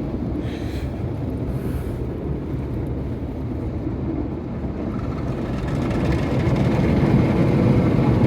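Automatic car-wash brushes scrubbing over the car, heard from inside the cabin as a dense low rumble and swishing. It grows louder in the last few seconds.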